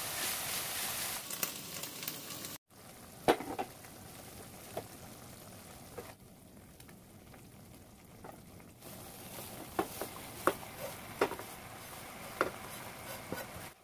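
Green masala of onions, peas and green chutney sizzling in a non-stick pan. After a brief break the sizzle goes on more quietly, while a wooden spatula stirs and knocks against the pan several times.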